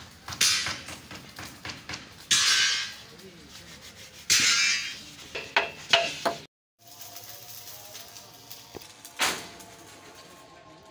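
Irregular knocks and clanks of hand tools on metal and wood, like hammering, with two longer hissing bursts about two and four seconds in. The sound drops out for a moment past the middle, then a fainter steady hum carries on with one more knock.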